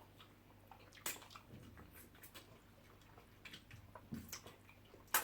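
Close eating sounds: wet chewing and smacking of banku and soup, with scattered sharp clicks. The loudest come just after a second in and right at the end.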